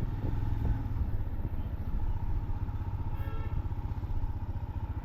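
Motorcycle engine idling with a steady, fast low pulse.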